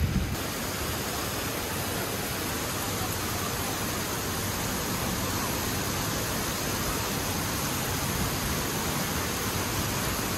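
Heavy rain pouring down on a street and parked cars, a steady even hiss.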